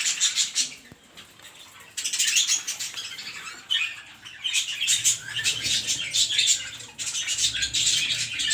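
A colony of pet birds chattering and squawking in bouts of dense, high-pitched calls, with a short lull about a second in and another near the middle.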